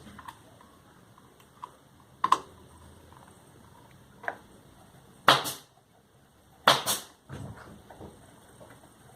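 Sharp knocks and clicks of hand tools and parts being handled while a sewing machine's motor cover and screws are refitted. There are a couple of small clicks, then two loud knocks about five and a half and seven seconds in.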